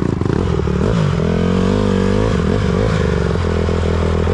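Dirt bike engine running near the riders, its pitch rising and falling gently as the throttle is blipped up and down.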